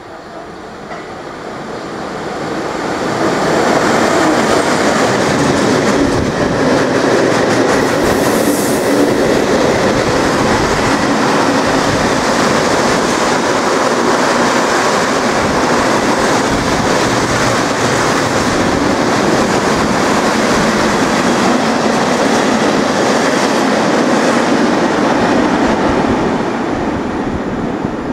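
Freight train headed by a ČD Cargo class 122 electric locomotive passing through at speed: a loud, steady rumble of wagon wheels running over the rails. It builds over the first four seconds, holds, and starts to fade near the end.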